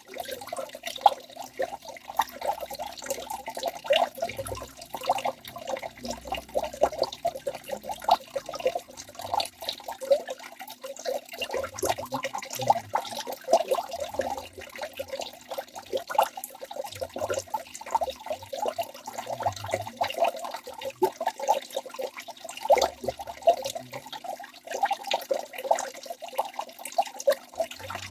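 Water of a forest waterfall splashing and gurgling continuously, with many small irregular splashes and drips.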